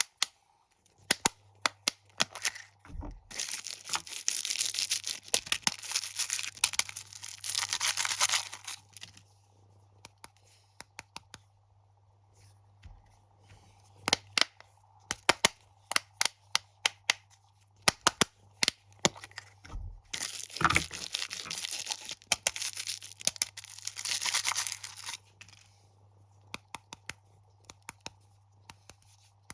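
Plastic snack wrappers being crinkled and torn open, with many sharp crackles throughout. Two longer stretches of continuous crinkling and tearing come a few seconds in and again about two-thirds of the way through.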